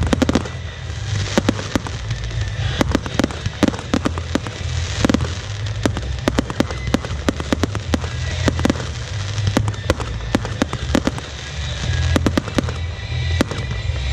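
A fireworks display firing: aerial shells and batteries launching and bursting in a dense, irregular run of sharp bangs, several a second, over a steady low rumble.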